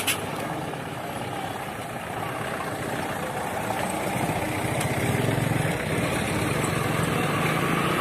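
Truck engine running steadily, growing gradually louder, with a sharp click at the very start.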